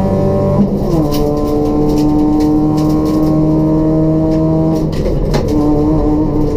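Race-prepared Toyota Etios 1.5-litre petrol engine with a free-flow exhaust, running hard under load. Its pitch drops sharply about half a second in, as at a gear change, holds nearly steady, then breaks off near five seconds and picks up again at a lower pitch.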